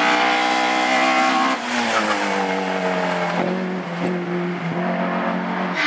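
A classic race car's engine pulling at high revs, then lifting off about a second and a half in. The revs fall away over the next second and then hold steady as the car runs on through the slalom course.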